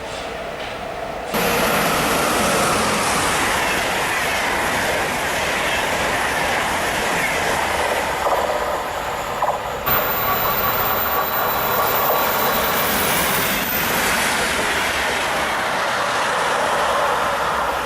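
A train passing close by at speed, wheels running on the rails with some wheel squeal from the curved track. It comes in suddenly about a second in and stays loud throughout.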